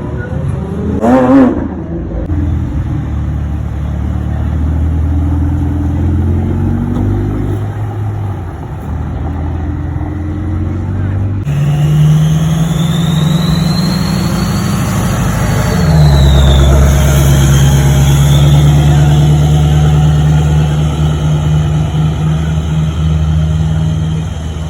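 Sports car engine idling, revved once sharply about a second in. Partway through, the sound changes abruptly to an engine idling steadily, which settles lower in pitch a few seconds later.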